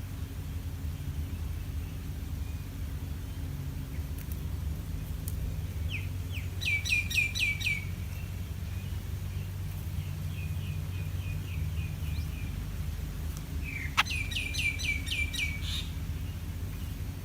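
A bird calling in two bursts of quick, repeated falling chirps, about seven and about fourteen seconds in, with softer repeated notes between them. A sharp click comes just before the second burst, over a steady low rumble.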